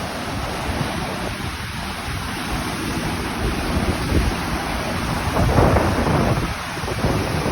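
Strong wind buffeting the microphone, a churning low rumble over a steady rush of choppy lake water, with a stronger gust about five and a half seconds in.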